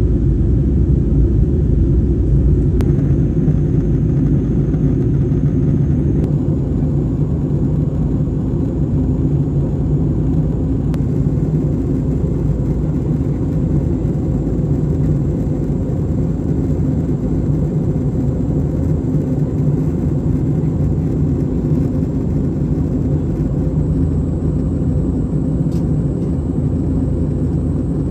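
Steady low rumble of an Airbus A330-300 airliner heard from inside the cabin, with a faint thin high whine over it.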